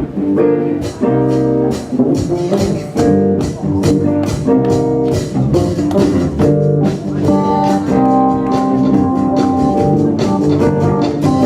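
Live band playing the instrumental intro of a song, with guitar chords over a rhythmic beat.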